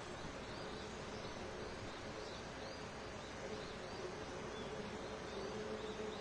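Summer dawn forest ambience: a steady drone of insects with a low buzzing hum, and small birds giving short, high chirps again and again.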